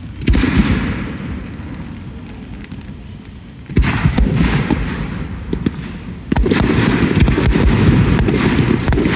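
Aerial fireworks going off: a loud burst just after the start, another near four seconds in, then from about six and a half seconds a dense, sustained run of booms and crackling.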